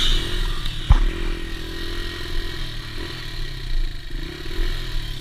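Dirt bike engine running steadily, with a single sharp thump about a second in.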